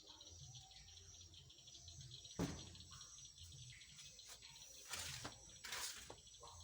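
Faint, steady chirring of insects such as crickets, with one sharp knock about two seconds in and two short rustles near the end.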